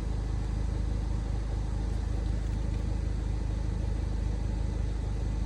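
BMW E92's engine idling steadily with a low, even hum.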